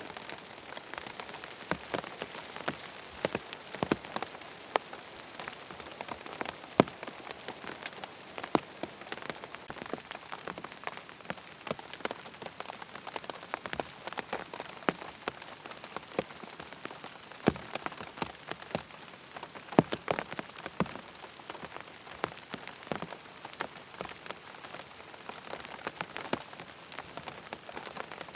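Steady rain falling, with frequent sharp, irregular ticks of single drops scattered through the even hiss.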